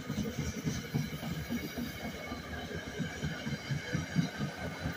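NJ Transit commuter train of Comet passenger cars rolling past as it departs, its wheels clattering over the rails in a fast, irregular run of low thumps. A faint steady high whine sits above the clatter.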